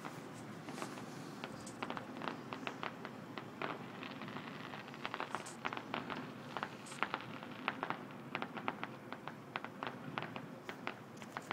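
Fireworks crackling: a dense, irregular run of sharp pops and snaps over a low, steady rumble.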